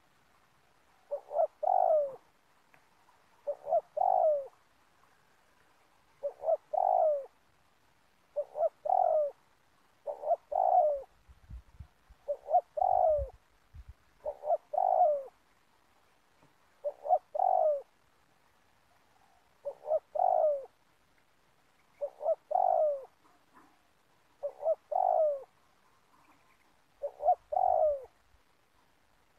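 Spotted dove cooing. Its phrase of a few short notes repeats about every two to two and a half seconds, around a dozen times.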